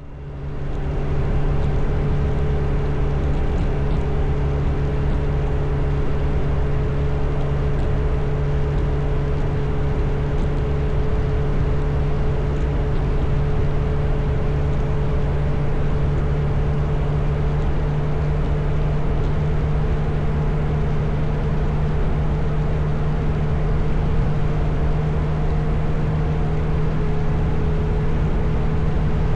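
Motorcycle engine running at a steady cruise, its pitch holding nearly constant, over a low rumble.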